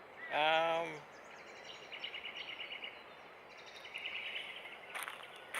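A man's short wavering hum near the start, then faint outdoor ambience with small bird chirps.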